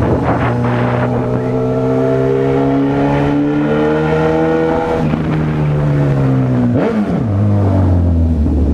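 Honda CB1000R's inline-four engine pulling under way, its note rising slowly for about five seconds. The note drops steeply about seven seconds in, as at a gear change.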